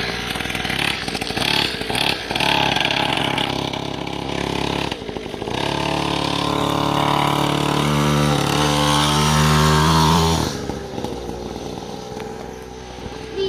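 Motocross motorcycle engine running and revving. It is loudest and steadiest from about six to ten seconds in, then falls away abruptly.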